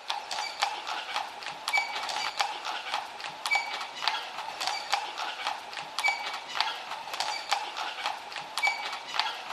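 Hooves clip-clopping in a steady rhythm on a hard surface, a few knocks a second.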